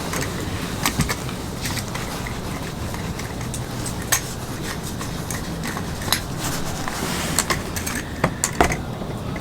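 Camp cookware and utensils clinking and tapping now and then, over a steady hiss.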